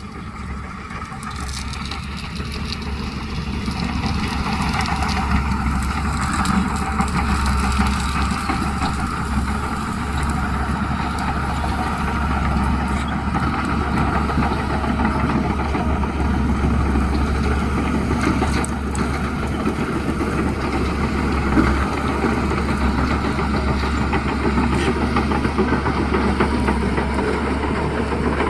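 Bulldozer's diesel engine running, growing louder over the first few seconds and then holding steady.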